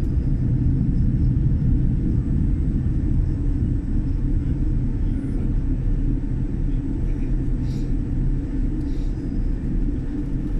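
Steady low rumble of a jet airliner's engines and airflow heard from inside the passenger cabin during takeoff.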